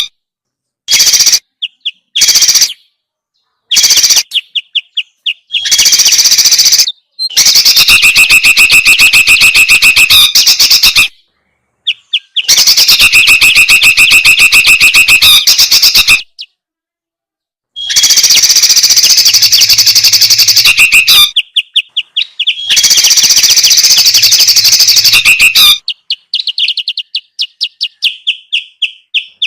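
Bird-lure recording of noisy songbird chatter calls, played loud: several-second bursts of very fast chattering notes with sudden stops and short silences between them, ending in a quick run of sharp chips.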